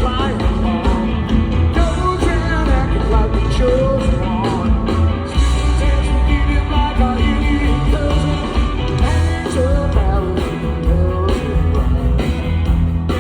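Live rock band playing, loud and steady, with singing over the band.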